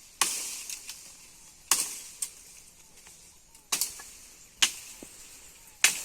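Wood being chopped with a blade: about five sharp, irregularly spaced strikes, each ringing off briefly, plus one lighter hit.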